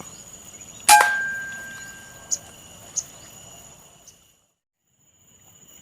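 A single air rifle shot about a second in: a sharp crack with a short ringing tone fading after it, then two faint ticks. Insects chirp in a steady high drone behind, cutting out briefly near the end.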